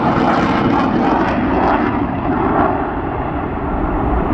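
Eurofighter Typhoon fast jet's twin engines running hard as it turns during a display, a loud steady rush whose higher hiss fades about two seconds in while the deep rumble carries on.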